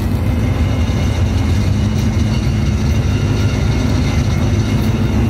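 Honda Civic drag car's engine idling, a loud, steady low rumble that holds an even pitch with no revving.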